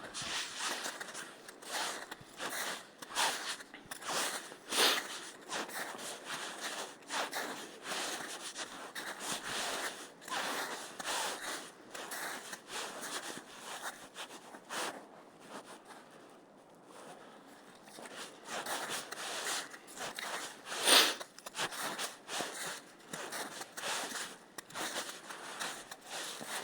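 Footsteps crunching and rustling over the forest floor, an uneven tread of about one or two steps a second. They pause briefly a little past the middle, and there is one louder step later on.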